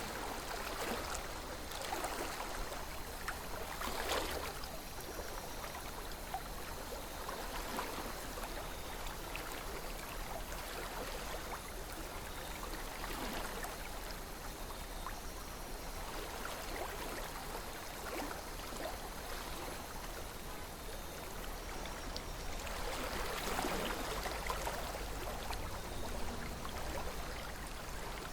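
River water flowing and trickling steadily, swelling a little louder now and then, most plainly near the end.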